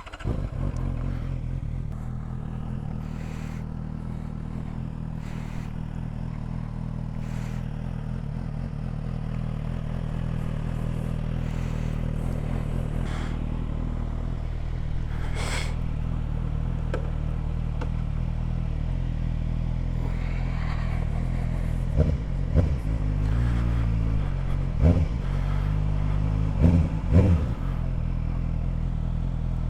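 Suzuki GSR 750 inline-four engine with an Ixrace Z7 aftermarket exhaust, starting and settling into a steady idle. Near the end it is blipped several times in short, sharp revs.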